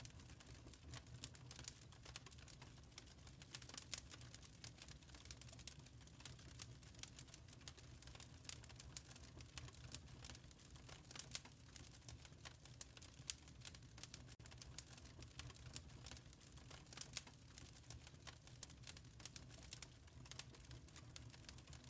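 Faint crackling of a wood fire in a fireplace: irregular sharp snaps and pops over a low, steady rumble.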